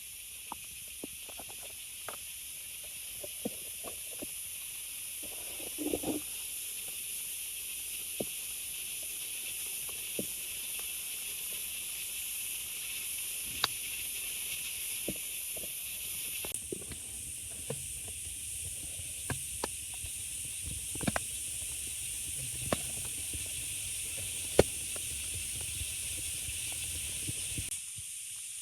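Steady hiss of rain with scattered sharp drips and ticks. A short cluster of knocks comes about six seconds in.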